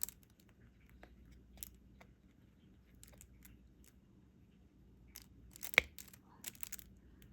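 Scattered small clicks and taps of a diamond-painting stylus picking plastic drills from the tray and pressing them onto the canvas, with one sharper click near six seconds in.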